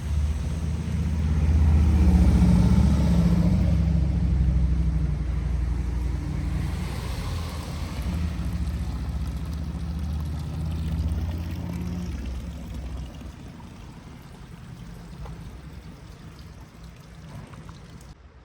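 A motor vehicle's engine rumbling as it passes, loudest about two seconds in and dying away over the last few seconds.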